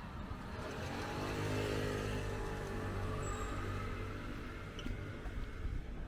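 A motor vehicle passing close by, its engine note swelling over the first two seconds, then sliding slightly in pitch and fading as it moves away.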